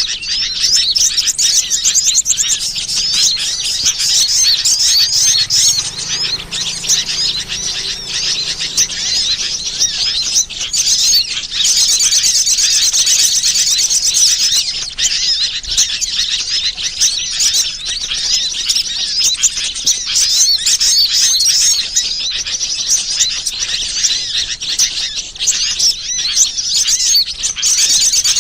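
Bird-lure recording of many small birds chirping and twittering rapidly and continuously in a dense, high-pitched chorus.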